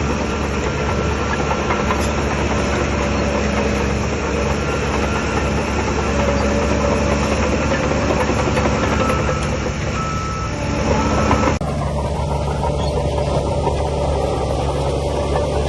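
Diesel engine of heavy earthmoving equipment running steadily under load, with a noisy mechanical clatter over a low hum. The sound changes abruptly about two-thirds of the way through, at a cut, then carries on as before.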